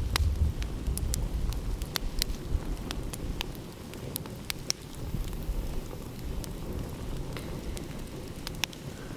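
Wood fire crackling with scattered sharp pops, over the low rumble of ocean waves that is strongest at the start and eases off after a few seconds.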